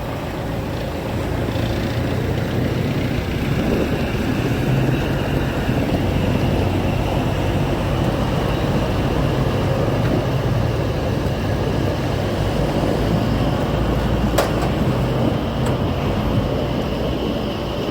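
Heavy tractor diesel engines running steadily at a low, even drone, with one sharp click about fourteen seconds in.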